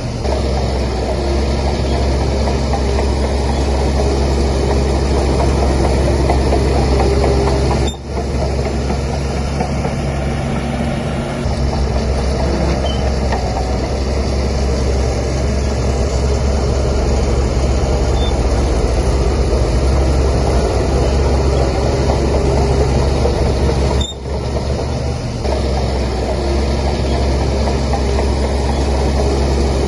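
Heavy diesel engine of a Shantui DH17C3 crawler bulldozer running steadily under load. The sound drops out briefly twice, about 8 and 24 seconds in.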